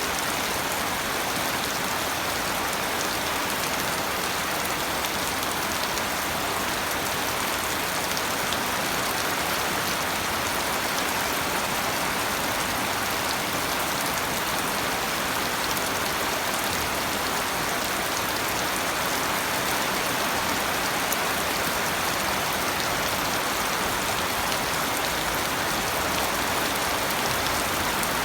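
Steady, heavy rain falling, a dense even hiss with scattered drop ticks.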